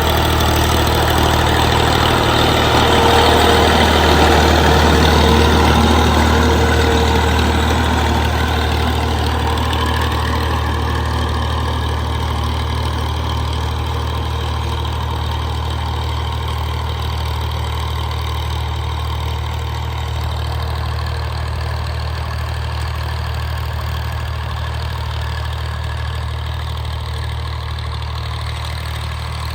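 Tractor engine running steadily with a deep, even hum, a little louder a few seconds in and then slowly fading.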